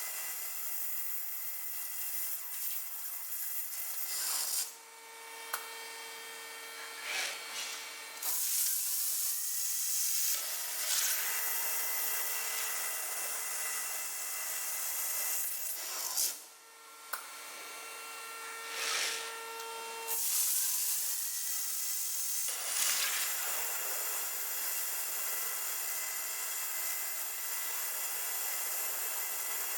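5-axis CNC stone-working machine (bridge saw, waterjet and contouring centre) machining a stone slab: a steady hissing, grinding cut with faint steady tones, dropping off briefly about five seconds in and again around sixteen seconds.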